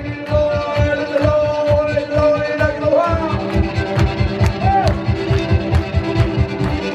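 Live roots music: a fast, steady stomped beat, about four thumps a second, under a held melody line that bends in pitch.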